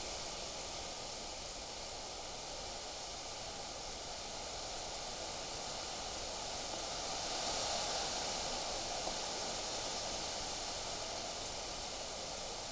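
Wind blowing through foliage, a steady rustling hiss that swells in a gust about two-thirds of the way through.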